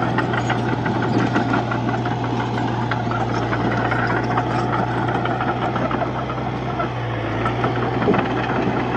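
Komatsu D31-P bulldozer's diesel engine running steadily under load, with a rattling metallic clatter over it; the engine note drops briefly about seven seconds in and then comes back.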